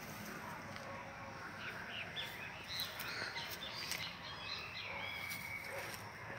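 Birds chirping: a run of short, quickly rising and falling chirps in the middle, and one held whistled note shortly before the end, over a steady outdoor background hiss.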